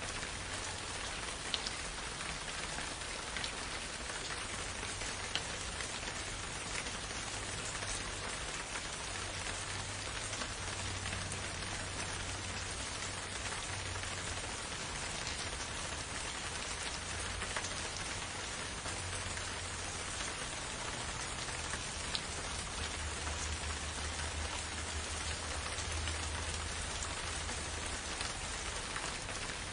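Steady rain falling in a forest, an even hiss with scattered individual drops ticking, over a faint low rumble.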